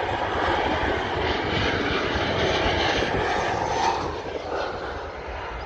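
Jet airliner's engines at high power as it climbs away. The noise is loud and steady, then fades from about four seconds in.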